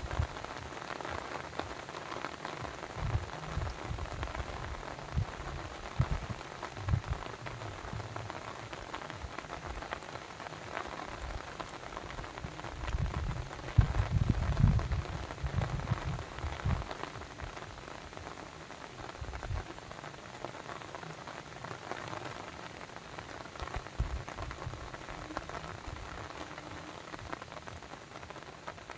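Steady patter of water with irregular low thuds, heaviest about halfway through.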